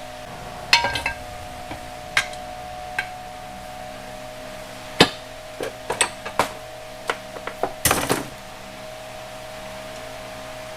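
Metal engine parts and tools being handled on a workbench: scattered clinks and knocks, some with a brief metallic ring, busiest in the second half, over a steady background hum.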